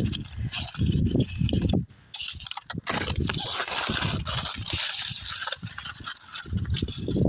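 Footsteps and rustling handling noise: irregular low thuds in the first couple of seconds and again near the end, with a rustling hiss in between.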